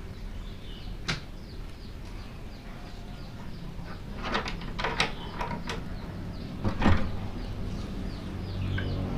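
Birds calling with many short, repeated falling chirps over a low steady background noise, broken by a few sharp knocks about a second in and again between about four and seven seconds in.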